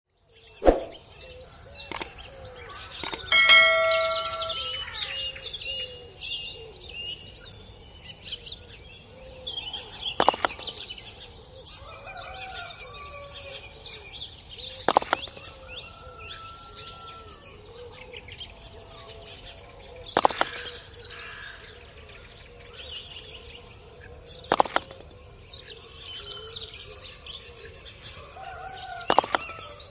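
Birds chirping and calling throughout, with a ringing metallic ding about three seconds in and single sharp knocks about every five seconds.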